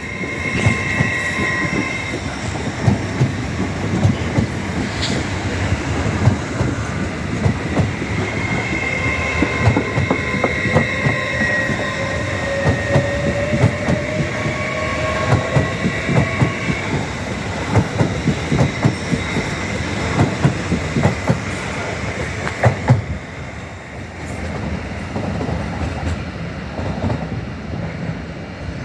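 LNER class 801 Azuma electric train running past, its wheels clicking rapidly over rail joints, with a steady high whine and a lower whine that rises in pitch partway through. The train noise drops away abruptly about 23 seconds in.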